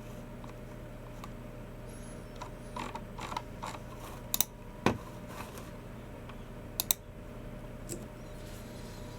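Sparse typing on a Logitech MX Keys Mini keyboard and clicks of a Logitech G304 mouse: a handful of separate sharp clicks, some in quick pairs, with pauses between, over a faint steady hum.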